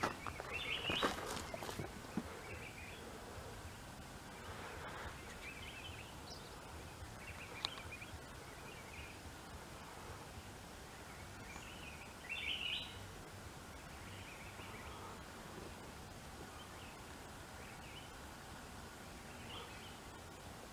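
Quiet outdoor ambience with faint, scattered bird chirps, the loudest cluster about twelve seconds in. A few sharp clicks in the first couple of seconds.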